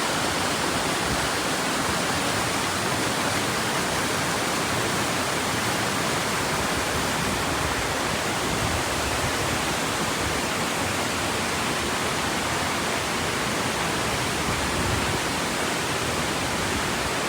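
Vickery Creek's water rushing steadily below the bridge, a constant loud rush with no breaks.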